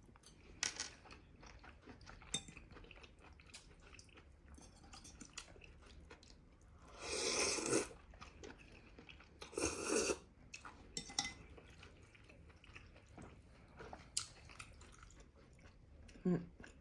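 Someone eating at the table: quiet chewing and small clicks of cutlery against a dish, with two louder noisy bursts, each about a second long, roughly seven and ten seconds in.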